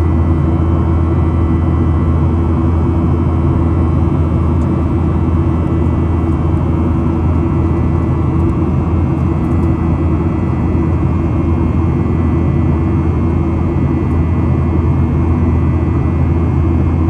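Boeing 737-800's CFM56-7B jet engines running with a steady, unchanging drone and a strong low hum.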